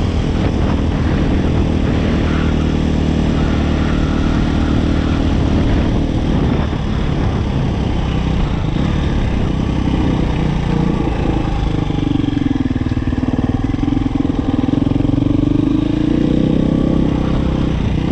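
Dirt bike engine running as the bike is ridden. The engine note shifts with the throttle and holds higher for a few seconds past the middle.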